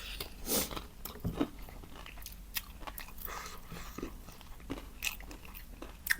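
Close-up eating sounds: a person biting and chewing food, with irregular crunches and wet mouth clicks.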